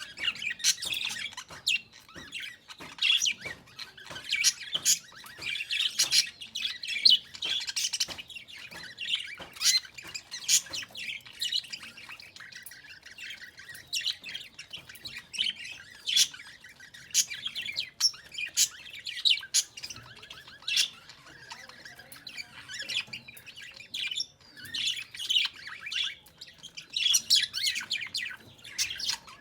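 Pet budgerigars chirping and chattering, with many short, quick calls coming in clusters and some sharp squawks.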